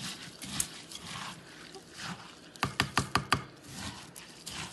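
Bird seed and gelatin mixture rustling and scraping as it is stirred in a bowl, with a quick run of about six sharp taps a little past halfway through.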